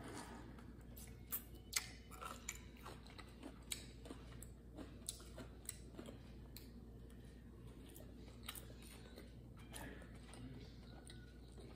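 A person quietly chewing sushi with the mouth, with scattered short mouth clicks and smacks.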